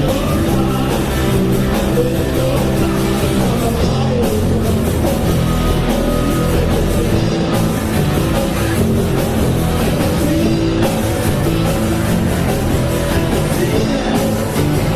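Rock music from a band recording, playing loud and unbroken.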